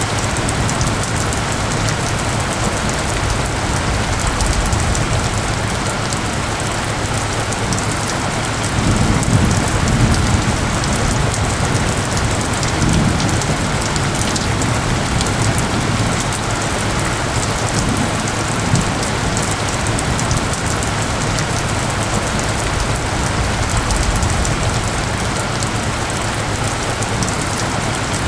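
Steady heavy rain, an even hiss of drops, with a few low rumbling swells about nine and thirteen seconds in.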